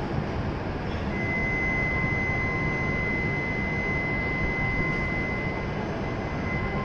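Steady low hum of a stationary E7-series Shinkansen trainset at a station platform, with a steady high-pitched tone that starts about a second in and holds for about six seconds.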